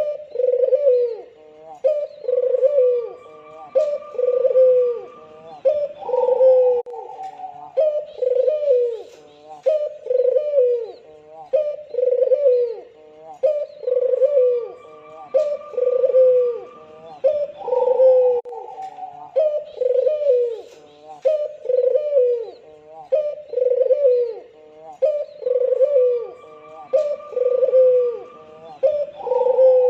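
Albino puter dove (Barbary dove) cooing steadily and continuously, about one coo a second, with a fainter higher call now and then.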